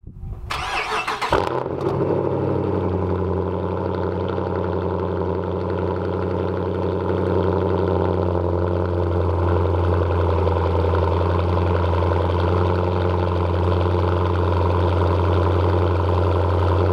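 Straight-piped 2015 Dodge Challenger R/T's 5.7-litre Hemi V8 starting with a brief burst about half a second in, then settling into a steady idle.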